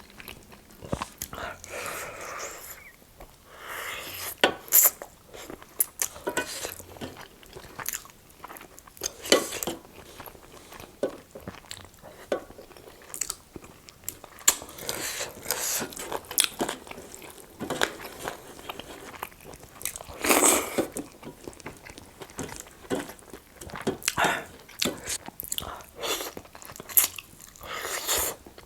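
Close-miked eating: a person biting, crunching and chewing food, with many sharp crunches scattered irregularly between spells of chewing.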